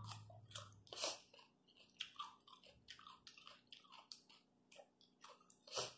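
Mouth sounds of someone biting and chewing a crisp raw green vegetable: a faint string of irregular crunches. The loudest crunches come about a second in and again near the end.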